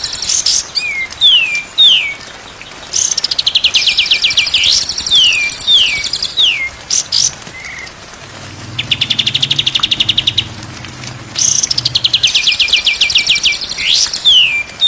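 White-rumped shama (murai batu) song played as a cage-bird training recording: bursts of fast, evenly repeated trills alternate with whistled notes sliding downward, with short pauses between phrases.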